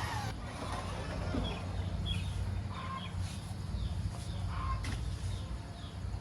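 Chickens clucking with scattered short calls over a steady low rumble. A short bit of music cuts off right at the start.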